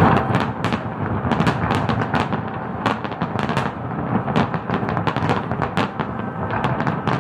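Diwali firecrackers and fireworks going off: many sharp, irregular cracks and bangs several times a second over a dense continuous rumble.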